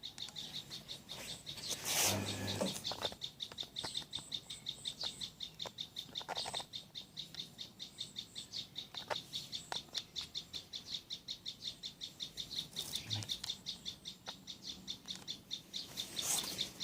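Steady, rapid, high-pitched chirping, about six chirps a second, with a few short rustling noises over it.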